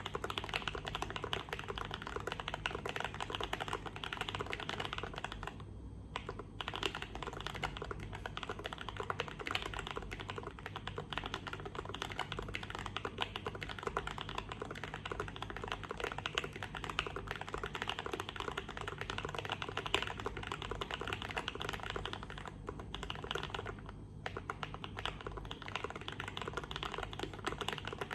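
KBD75 v3.1 mechanical keyboard being typed on quickly and continuously, a dense run of key clicks that breaks off briefly twice.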